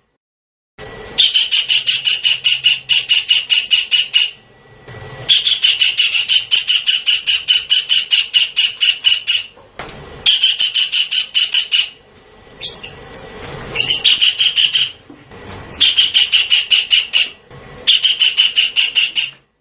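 Javan kingfisher calling in loud runs of rapid, harsh repeated notes, about seven a second. Each run lasts two to four seconds, with short breaks between them.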